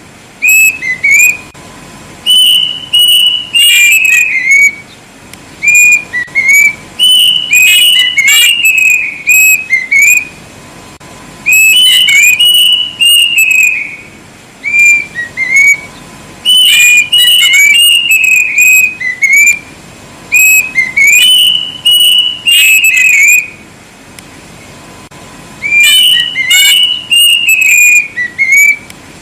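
Plaintive cuckoo (kedasih) singing loudly: phrases of clear whistled notes that slur downward, repeated about every four to five seconds with short pauses between.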